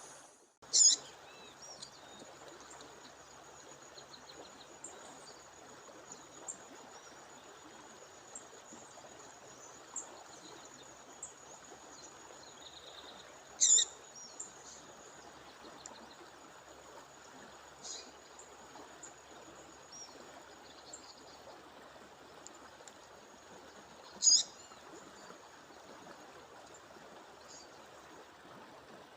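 A female songbird giving a short sharp call three times, roughly ten seconds apart, with fainter chirps between, over the steady rush of a stream or waterfall. A thin, steady high-pitched tone runs underneath.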